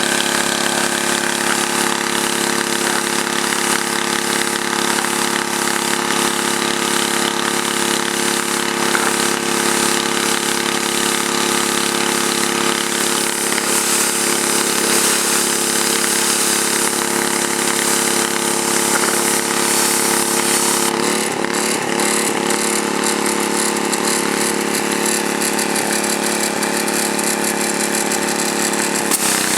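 Gas-engine pressure washer running steadily under load, with the hiss of high-pressure water spraying from a water broom onto concrete. The engine note shifts slightly about two-thirds of the way through.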